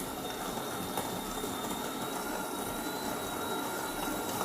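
De'Longhi bean-to-cup coffee machine running with a steady mechanical whir as it moves on from the milk to the coffee stage of a latte.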